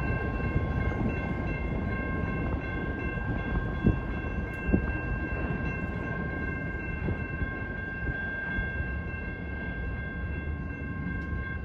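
Freight train passing: a rumble of rolling cars with two sharp clanks about four and five seconds in, over a steady high-pitched tone that holds throughout and cuts off at the end.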